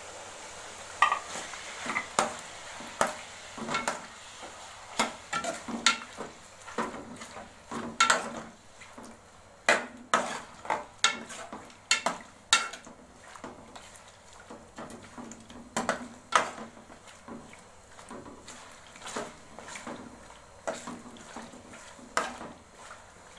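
Spoon stirring chicken with ginger-garlic paste in a karahi, clinking and scraping against the pan at irregular intervals over a faint sizzle.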